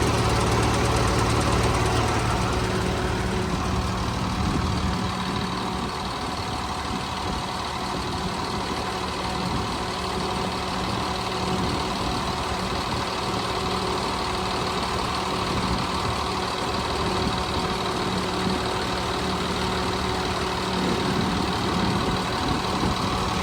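Jet fuel truck's engine running steadily with its pump engaged while it dispenses fuel through the hose. A deep low rumble drops away about five seconds in, and the steady running carries on.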